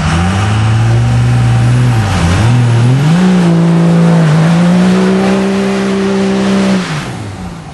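Dodge Cummins inline-six diesel pickup engine revving hard during a burnout: the engine climbs to high revs, sags briefly about two seconds in, climbs again and holds near-steady high revs over a rushing haze of tire and exhaust noise, then drops off near the end.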